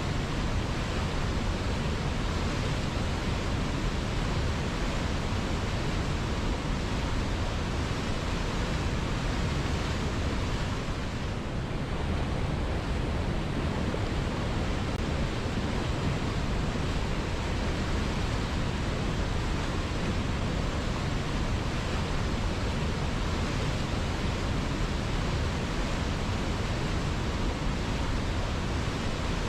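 River water flowing, a steady even rushing noise that eases very slightly for a moment about twelve seconds in.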